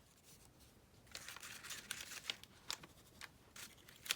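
Paper being handled: faint rustling and crinkling of paper scraps being moved and positioned, a run of short crackles starting about a second in.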